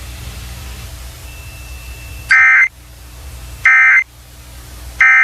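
Emergency Alert System end-of-message data bursts closing a weather radio warning: three short, identical buzzing bursts of digital tones about 1.3 seconds apart, after a couple of seconds of steady radio hiss and hum.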